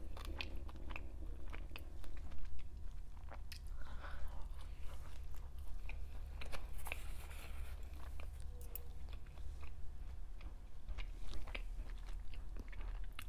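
Close-miked chewing of a steak-and-egg breakfast, with wet mouth clicks and crunches, over a steady low rumble.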